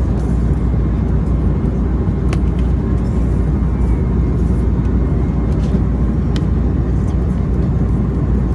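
Steady low rumble of an Airbus A321neo heard inside the cabin, with a few faint clicks and rattles.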